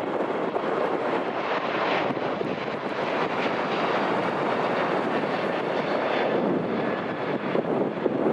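Jet airliner engines running, a steady roar with a faint high whine, mixed with wind buffeting the microphone.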